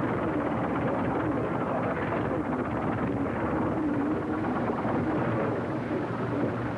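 Motor trucks driving, a steady engine drone with no distinct knocks or breaks, heard through the hiss of an old, worn film soundtrack.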